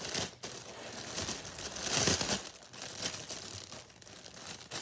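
Plastic packaging crinkling and rustling as it is handled, loudest about two seconds in.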